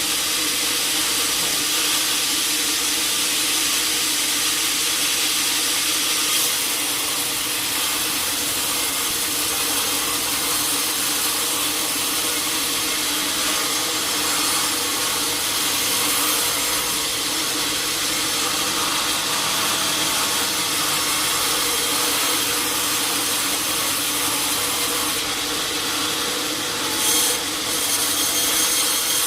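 Sawmill saw cutting steadily through a teak log: a continuous hiss of blade in wood over the steady hum of the machine, with a brief knock near the end.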